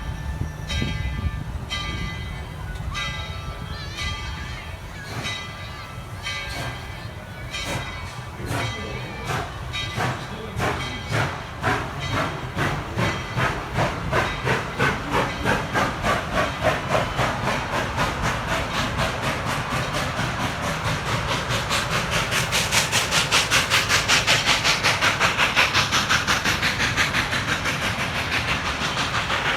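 Steam locomotive pulling away: the bell rings steadily at first while the exhaust chuffs begin slowly, then the chuffs quicken to a fast, even beat with steam hiss as the train gathers speed.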